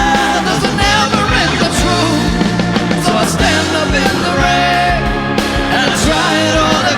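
Live space rock band playing loudly: a steady drum beat, bass and electric guitar, with a wavering melody line over the top.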